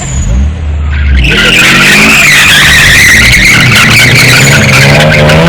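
A car drifting: its tyres start squealing loudly about a second in and keep squealing, while the engine revs and slowly climbs in pitch underneath.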